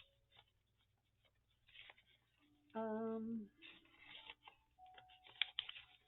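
A single short hummed note from a voice about three seconds in, steady in pitch and under a second long, among faint clicks and rustles from handling paper craft pieces, with one sharper click near the end.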